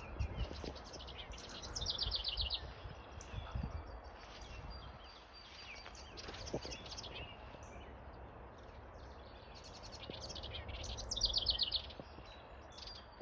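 Several songbirds calling and singing. One bird gives a loud, fast trill of rapidly repeated notes twice, about two seconds in and again near eleven seconds, among scattered higher chirps, over a low rumble.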